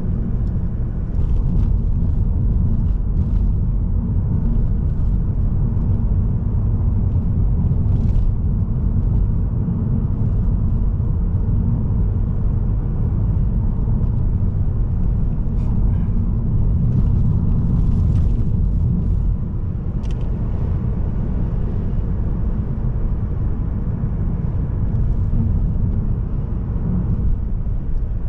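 Steady low rumble of a Mazda3 sedan's 1.8-litre diesel engine and tyres on the road, heard from inside the car, with a few faint clicks.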